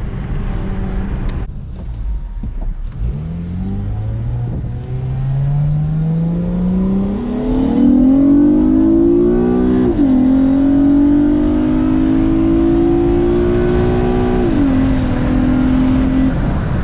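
Acura TL SH-AWD's 3.7-litre J37 V6, its pre-catalytic converters deleted, accelerating hard: the revs climb steadily, fall at an upshift about ten seconds in, climb again and fall at a second upshift near fifteen seconds, then hold.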